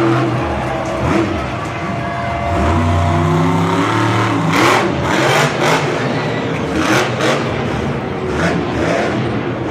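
Monster truck engine revving, its pitch rising and falling, with several sharp, loud bursts from about halfway on.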